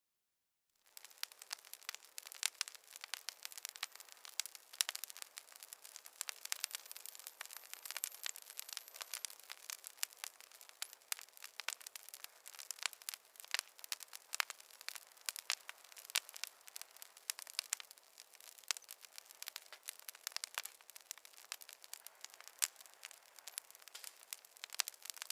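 Wood fire crackling in a fireplace: dense, irregular sharp pops and snaps over a soft hiss. It starts about a second in, after a brief silence.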